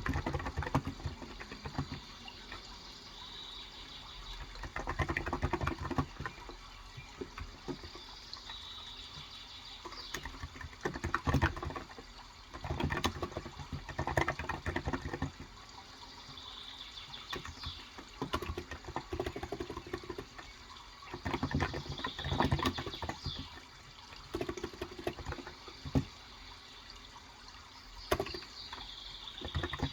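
Typing in bursts on a Cox Endeavour electro-capacitive tenkeyless keyboard with 35 g switches, over a steady sound of running water. A bird's short falling call repeats every few seconds.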